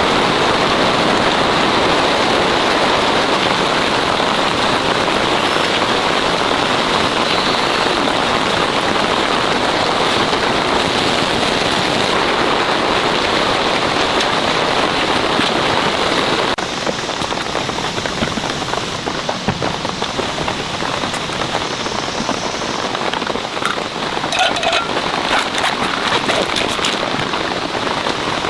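Heavy rain falling steadily. About sixteen seconds in, the sound turns a little softer, and a few sharp clicks come near the end.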